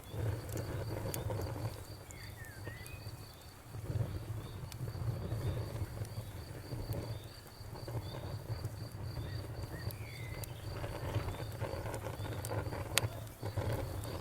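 Wood fire crackling, with scattered sharp pops (the loudest near the end) over a low rumble of flame that swells and fades. A cricket chirps steadily throughout, about three chirps a second.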